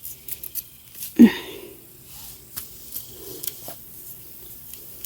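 Tomato plants rustling, with scattered small clicks and snaps as tomatoes are picked by hand off the vines. There is a brief vocal sound about a second in.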